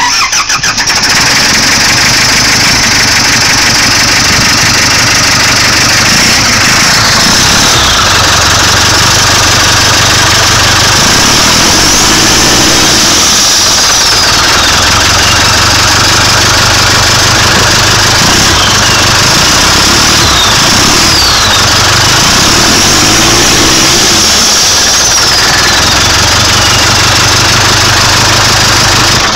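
Caterpillar IT14B loader's turbodiesel running with no muffler, very loud, starting abruptly and then running with the revs rising and falling several times. A high whistle slides down in pitch a few times.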